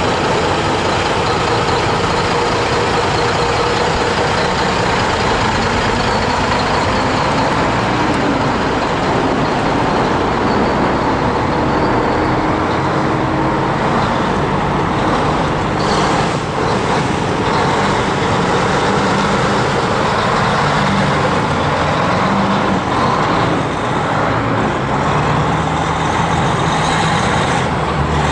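Heavy trucks running, their diesel engines loud and steady.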